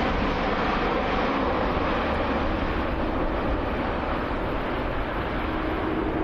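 Airbus A380-800's four jet engines at high power during departure: a steady, loud roar.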